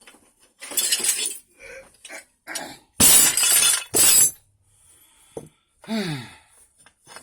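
Loose metal spare gearbox parts clattering and clinking together as they are rummaged through and handled, in several bursts, the loudest about three to four seconds in.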